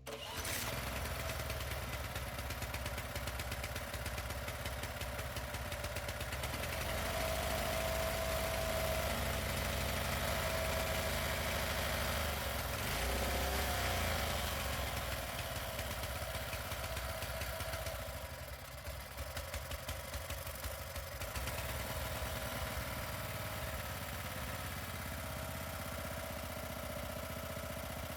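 Honda F501 tiller's small single-cylinder four-stroke engine running at idle, its level wavering a few times. The engine is running again after its fuel tank was blown through to get fuel to the carburettor.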